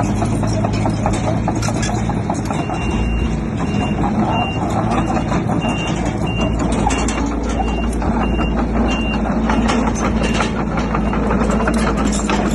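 Komatsu D31P bulldozer's diesel engine running steadily, with irregular metallic clanks. From about two and a half seconds in until about nine seconds, a reversing alarm beeps roughly one and a half times a second.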